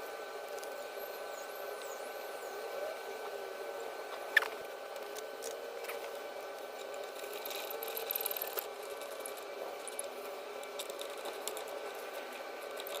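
Hand tools being used to bolt up a motorcycle exhaust: one sharp metallic clink about four seconds in, a brief scratchy rattle around eight seconds, and scattered light clicks, over a steady background hum.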